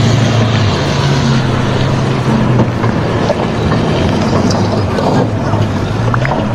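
Loud machinery running: a steady low engine drone under dense mechanical noise, with the pitch of the drone wavering slightly.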